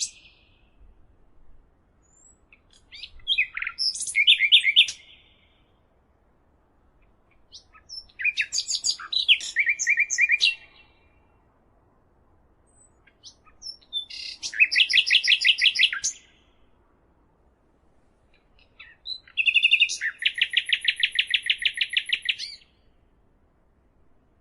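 A songbird singing four song phrases about five seconds apart, each a few quick high notes running into a fast, even trill; the last phrase is the longest.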